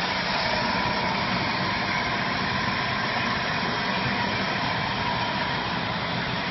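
CNC plasma cutter's arc cutting stainless steel sheet: a steady, unbroken hiss with a faint constant tone in it.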